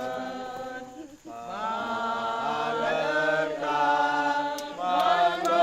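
A group of voices singing a slow hymn together, holding long drawn-out notes, with a short breath pause about a second in.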